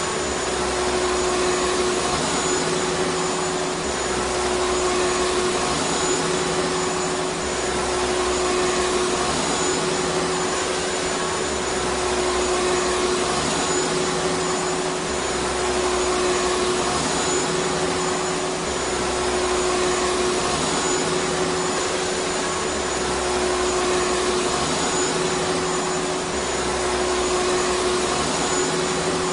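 Vacuum cleaner motor running steadily: an even rushing noise with a steady hum and a thin high whine. A low rumble swells and fades about every four seconds.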